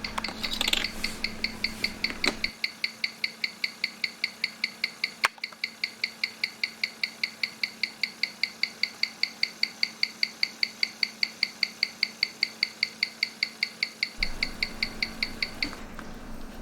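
Landeron caliber 51 watch movement ticking steadily, about five ticks a second, picked up and amplified by a timegrapher; the ticking stops about a second before the end. The timegrapher reading is poor, a sign that the movement needs service.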